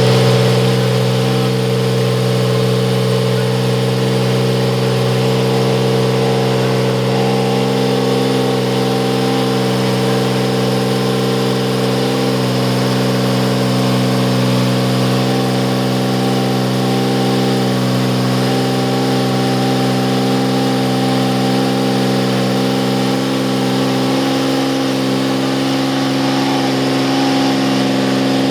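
Ford 1.5-litre turbocharged V6 Formula 1 engine of a Beatrice Lola THL2 running at a steady idle, its pitch wavering only slightly.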